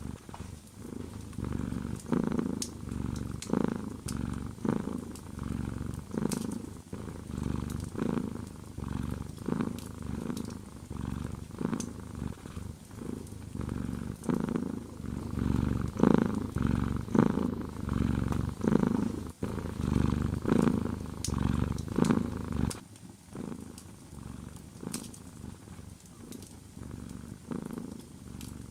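A domestic cat purring close up: a low rumble that swells and fades in a steady rhythm with its breathing. It grows softer and loses its deepest tones a little past three quarters of the way through.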